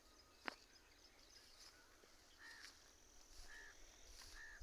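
Faint bird chirps, three short calls in the second half, over near silence, with a single faint click about half a second in.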